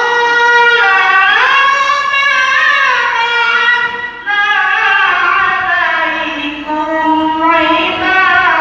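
A girl's high voice reciting the Quran in melodic tilawah style, holding long notes with ornamented wavering glides. The pitch sinks lower in the second half, with a short breath about four seconds in.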